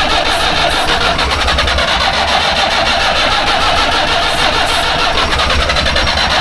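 Long-dormant diesel engine of an old camper during a start attempt, loud and steady with a fast even pulse.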